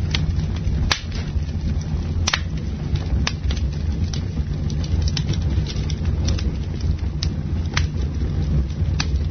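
Campfire burning: sharp wood crackles and pops at irregular moments, roughly one or two a second, over a steady low rumble.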